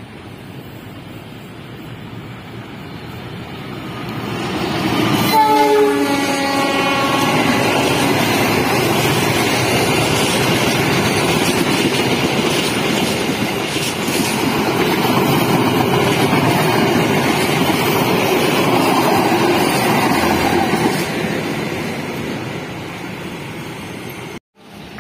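CC 206 diesel-electric locomotive, a GE C20EMP, sounds one short horn blast about five seconds in as it approaches. The passenger coaches then pass close by with steady rolling wheel noise for about fifteen seconds, fading away near the end.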